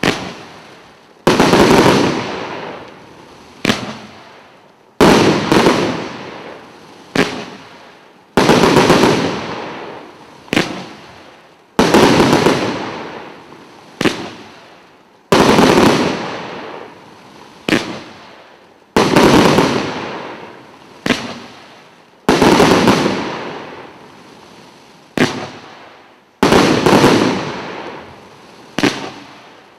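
A 100-shot fireworks cake (Jimry JM1073) firing: loud aerial bursts about every three and a half seconds, each a sharp report with a long fading tail. A smaller sharp bang falls between each pair.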